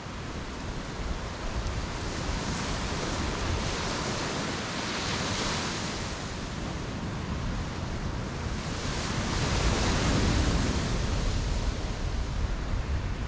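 Ocean waves breaking and washing up the beach, a steady hiss of surf with two larger waves swelling up, one around five seconds in and another around ten seconds in. A light rumble of wind on the microphone lies underneath.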